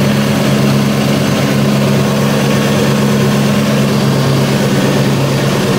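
2004 Mustang SVT Cobra's supercharged 4.6-litre DOHC V8, fitted with an aftermarket exhaust and a smaller 2.7 supercharger pulley, idling steadily.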